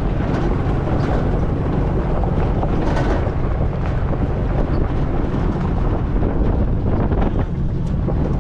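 Steady low rumble of a car driving, engine drone mixed with road and wind noise, with wind buffeting the microphone.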